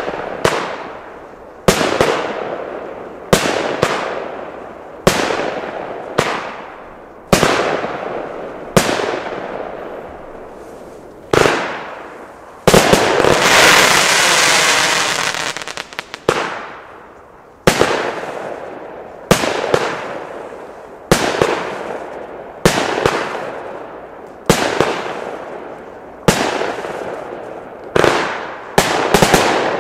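Nico Europe firework battery (cake) firing shot after shot, a sharp launch bang every one and a half to two seconds, each followed by a fading tail. About thirteen seconds in, a dense burst of continuous hissing and crackling lasts about three seconds before the single shots resume.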